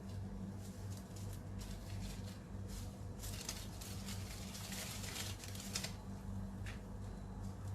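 Washed, drained basmati rice being tipped into a pot of boiling water. The grains patter and hiss in several bursts, the longest and densest in the middle, over a steady low hum.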